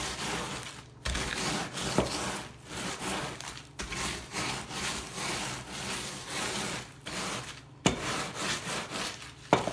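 Rolling pin rolled back and forth over graham crackers sealed in a plastic zip-top bag, crunching and crushing them into crumbs in repeated strokes, with a few sharp knocks along the way.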